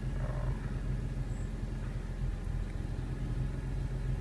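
A 2002 BMW M3's S54 straight-six engine idling steadily with a low, even rumble.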